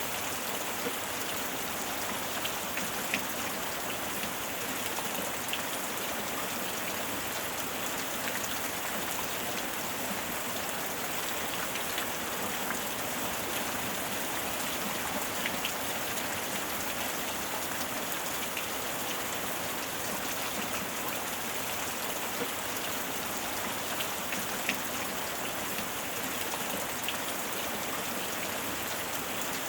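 Steady heavy rain, with individual drops pattering and ticking close by.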